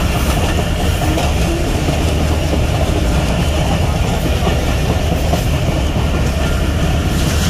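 A train running steadily, heard from inside a passenger coach: a continuous loud rumble of the wheels on the track, with a strong low drone underneath.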